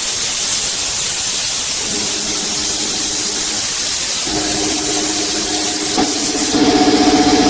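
Steady hiss of a compressed-air spray. A motor's hum joins about two seconds in and grows stronger about four seconds in.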